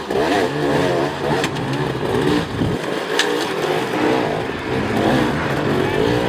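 Enduro dirt bike engines revving up and down over and over, the pitch rising and falling with the throttle, with a few short clicks and knocks.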